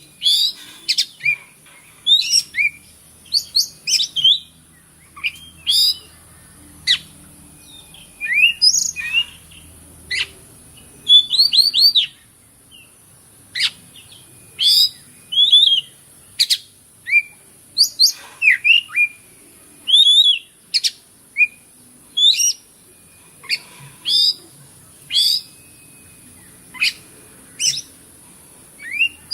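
Oriental magpie-robin singing a run of short, sharp, varied whistled phrases, one or two a second with brief pauses between them.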